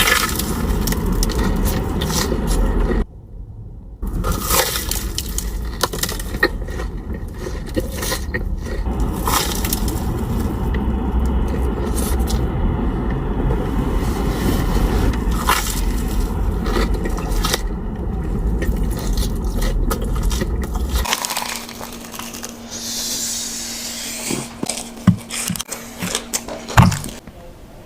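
Close-miked crunching and chewing of fried, sugar-coated Korean corn dogs, with many crackling bites, broken by cuts between clips at about 3 and 21 seconds in. After the second cut the crunching is quieter and sparser.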